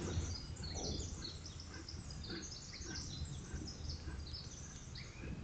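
Several wild birds chirping and singing in short, quick phrases, over a steady low background rumble.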